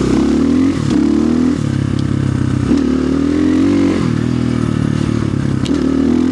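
Orion RXB250XL dirt bike engine under way, its pitch rising and dropping off several times as the throttle is opened and closed. A couple of sharp clicks and some clatter sound over it.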